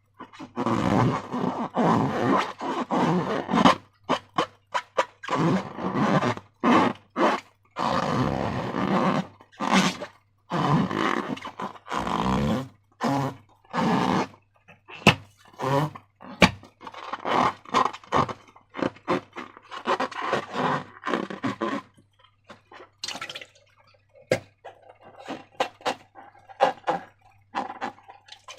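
Slime being squeezed and worked by hand, giving wet squelching and sputtering air-pocket sounds in bursts of about a second with sharp little pops. After about 22 seconds it turns quieter, with scattered clicks and pops.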